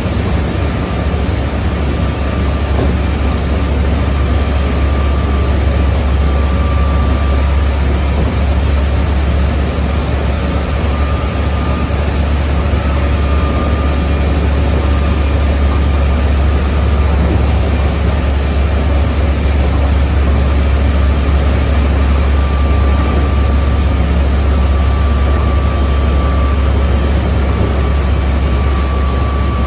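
Running sound inside a Keikyu 600 series electric train at speed: a steady low rumble of wheels on rail, with the faint high whine of its Mitsubishi GTO inverter-driven traction motors fading in and out.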